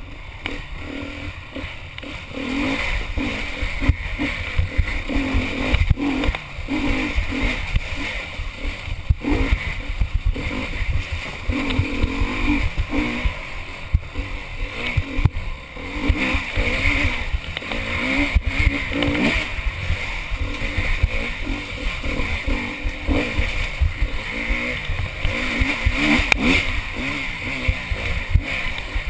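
Honda enduro motorcycle engine ridden hard, revving up and backing off again and again as the throttle opens and closes, heard from a helmet-mounted camera.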